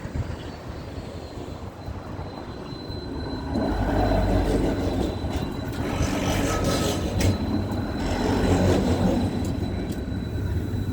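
A large vehicle rumbling past, growing louder about three and a half seconds in, with a thin steady high whine over it.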